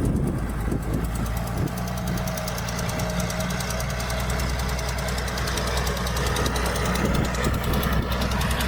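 Heavy diesel engine of earthmoving machinery running steadily, with a rapid, even knocking rattle over a constant low hum.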